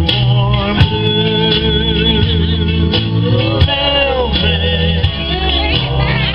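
Live band music: a singer performing over guitar and a bass line.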